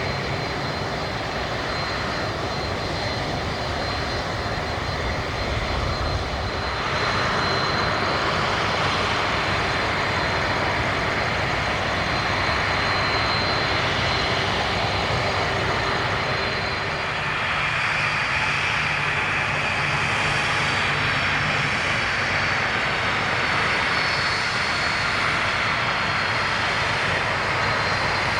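Jet airliner engines close by: a broad rush with a thin, steady high whine, getting louder about seven seconds in and staying loud.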